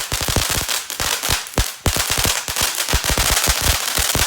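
TNT consumer firework cake firing a rapid string of sharp bangs and crackles, several a second, sounding like gunshots.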